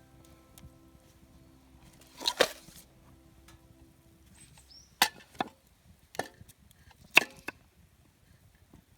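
Wood being chopped with a blade: about seven sharp, irregular strikes, two in quick succession, then single and paired blows a second or so apart.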